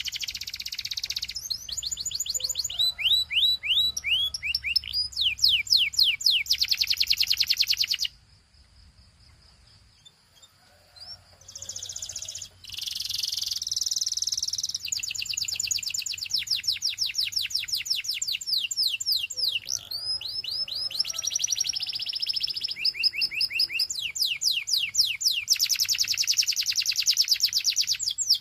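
Domestic canary singing: fast rolling trills and quick runs of repeated rising notes, with a break of about two seconds roughly a third of the way in before the song picks up again.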